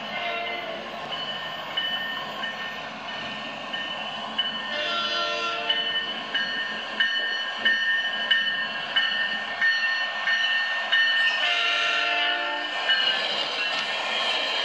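Passenger train running past, its wheels clattering at a steady beat with a high, steady squeal over the noise. Its horn sounds twice, a short blast about five seconds in and a longer one near twelve seconds.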